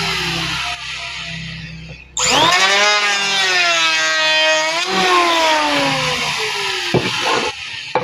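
Electric planer's motor whining, its pitch falling away, then starting up again about two seconds in with a rising whine. The pitch wavers while it runs and falls off again near the end.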